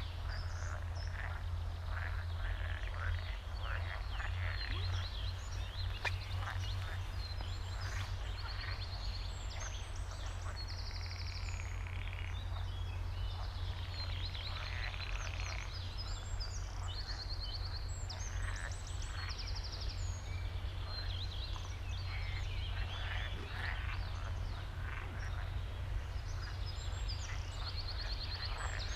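A chorus of frogs croaking continuously, with birds singing trilled phrases above them, over a steady low rumble.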